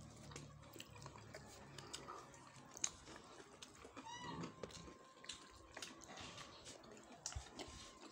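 Faint eating sounds of a child eating rice by hand: small wet mouth clicks and chewing. A short high-pitched call breaks in about four seconds in.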